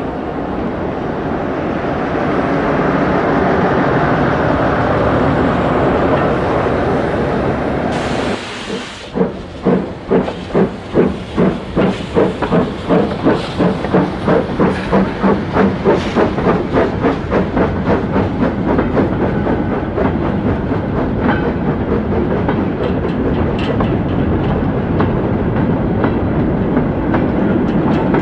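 Steam locomotive getting under way. A steady rumble and hiss comes first, then a short burst of hiss. Its exhaust beats then start slowly and quicken to about three a second before merging into a steady run.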